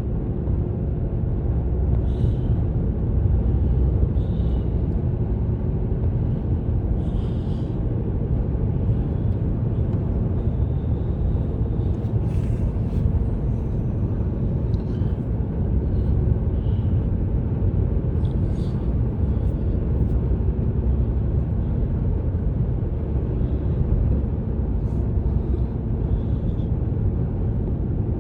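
Steady low road and engine rumble of a car driving at highway speed, heard from inside the cabin, with faint short ticks now and then.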